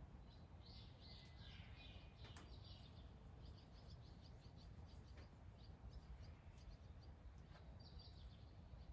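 Faint bird chirps, a cluster in the first few seconds and a short one near the end, over a near-silent background with a low rumble and a few soft ticks.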